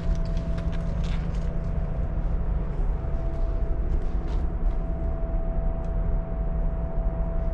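A steady low rumble with a constant faint hum tone over it, and scattered light clicks and taps.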